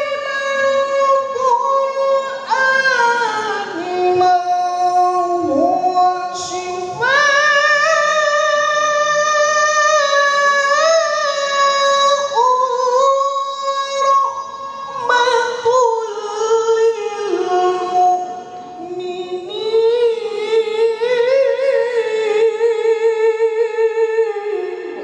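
A single high voice reciting the Quran in the melodic tilawah style, unaccompanied, drawing out long held notes with ornamented turns and melismas between phrases.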